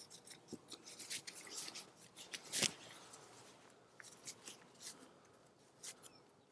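Hands rustling and crackling through dry mulch and soil in a potato-growing bucket, digging for potatoes: irregular crackles, busiest in the first three seconds, with one louder crackle about two and a half seconds in.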